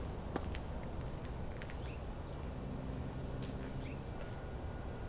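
Outdoor background noise with short, high bird chirps every second or so and a sharp click about half a second in.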